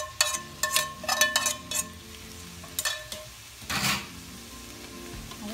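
A spatula knocking and scraping against a wok as scrambled egg is tipped into frying vegetables, with a run of sharp ringing clinks in the first two seconds, two more around three seconds in and a longer scrape near four seconds. Frying sizzle runs underneath.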